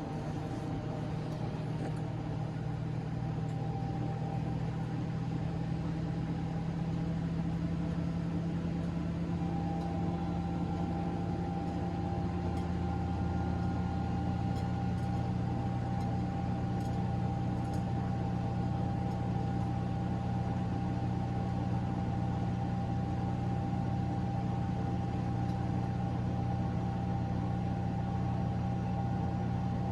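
Miele Novotronic W913 washing machine spinning after its second rinse, a steady motor and drum hum whose tones shift and settle at a new steady pitch about nine seconds in.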